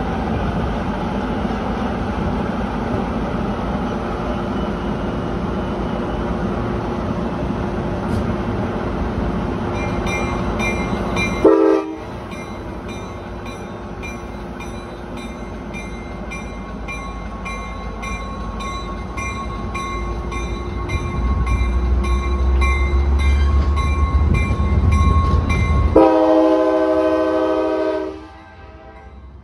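Trinity Railway Express diesel commuter train departing. The engine runs steadily and a bell rings in a fast, even rhythm, while the low engine sound rises as the train powers away. The horn sounds a short blast about a third of the way in and a long blast near the end.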